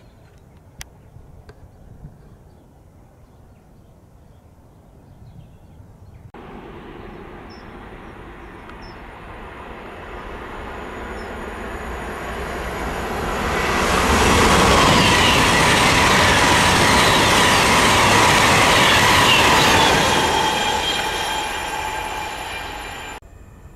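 A train passing on the main line: wheels and rails growing steadily louder as it approaches, loudest for about six seconds as it goes by, then fading and cutting off suddenly near the end.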